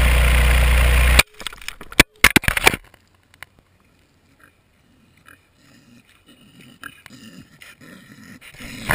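Loud steady rush of wind over the falling camera that cuts off suddenly about a second in, followed by a few knocks and thuds as the camera lands. After a quiet stretch, a pig grunts close to the camera, repeatedly and louder toward the end.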